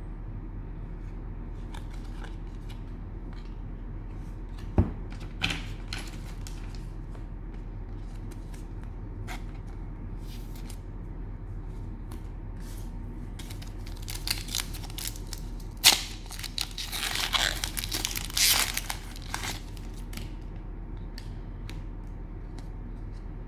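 Cellophane card-pack wrapper being torn open and crinkled, loudest in a burst of crackling from about 14 to 19 seconds in, after a single knock near 5 seconds. A steady low hum runs underneath.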